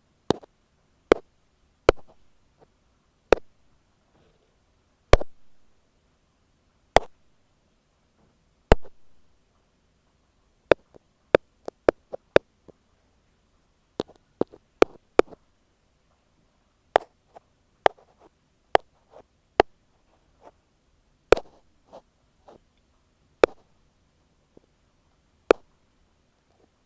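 Ear pick tapping on an earphone microphone: crisp, close taps at irregular intervals, sometimes one every second or two and sometimes in quick little runs.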